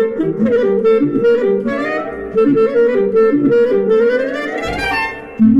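Clarinet-like melody from a Zoom B1Xon effects unit's 'Bulgar' preset, played as quick ornamented notes. Near the end comes a long rising glide, then a new held note begins.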